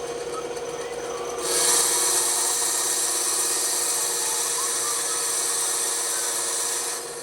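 Bandsaw running with a steady hum, its blade cutting through wood from about a second and a half in until just before the end, a louder hiss over the motor.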